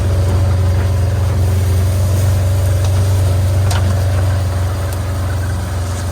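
A vehicle engine running steadily at an even, low pitch.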